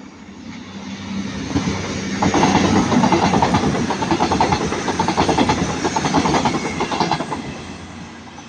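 A CrossCountry Voyager diesel multiple unit passing at speed. It hums as it approaches, then its wheels clatter rapidly over the rail joints for several seconds, and the sound fades as it goes away.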